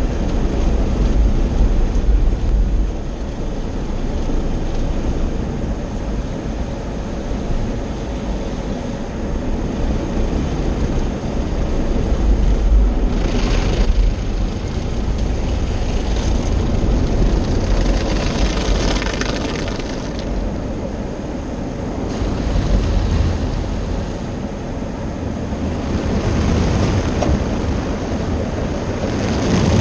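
Automatic car wash machinery running around the car, heard from inside it: a steady rumble with rushing water spray that swells and eases, hissing hardest about 13 seconds in and again around 18 to 20 seconds.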